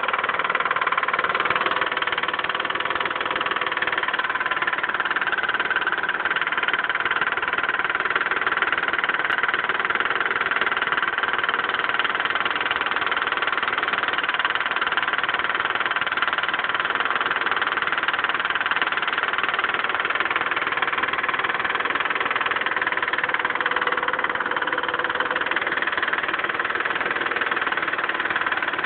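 Mitsubishi 3000GT's 3.0-litre V6 idling steadily with a lifter tick. The owner takes the tick for a lifter getting no oil.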